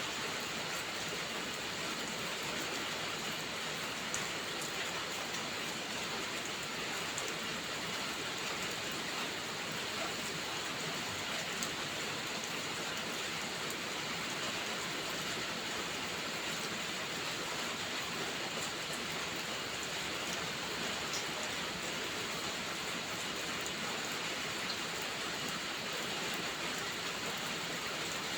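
Steady rainfall, an even hiss of rain on surfaces, with a few faint ticks of individual drops.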